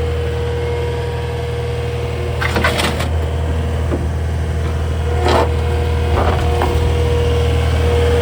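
Kubota SSV75 skid steer's 73 hp diesel engine running steadily with a low hum and a constant whine above it, with several sharp knocks and clatters: a cluster about two and a half seconds in, another near the middle, and a pair near the end.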